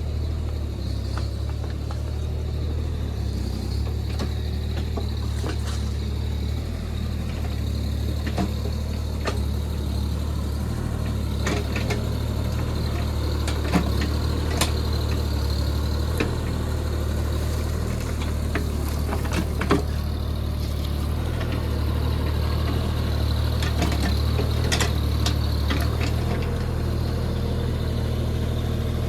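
Mini excavator (JCB JS30 Plus) engine running steadily, with a few sharp metallic clanks from the machine now and then.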